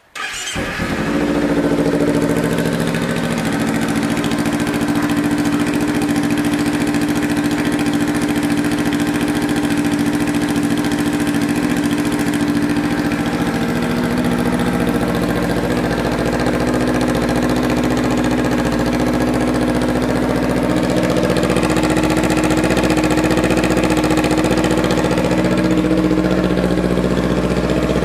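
Kawasaki Ninja 300 parallel-twin engine, fitted with an aftermarket shorty exhaust, starting right at the outset and settling within a couple of seconds into a steady idle.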